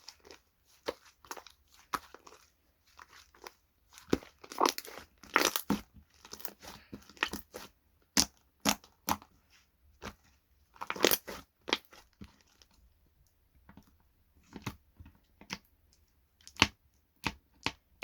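Slime being squished, pressed and poked by hand, giving irregular sharp pops and crackles with a couple of longer crackly bursts.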